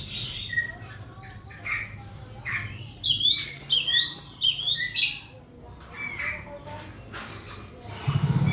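Cinereous tit calling: scattered chirps, then a loud run of repeated sharp falling notes about three to five seconds in, over a steady low hum.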